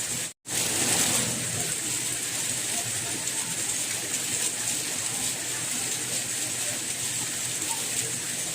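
Steady rain, an even hiss of falling water. The sound cuts out for a split second about half a second in, then resumes.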